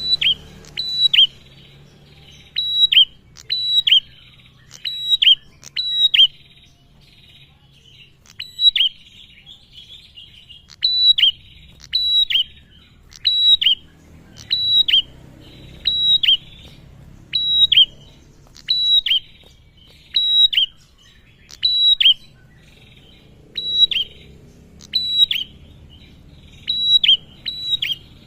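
Male prenjak (a prinia) calling: a loud, repeated chirp that drops sharply in pitch, often given in quick twos and threes about once a second, with a short break early on.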